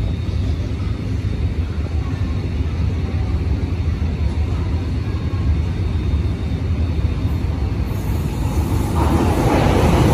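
Steady low rumble of a metro station platform, then about nine seconds in the rising noise of an MTR M-Train approaching along the track.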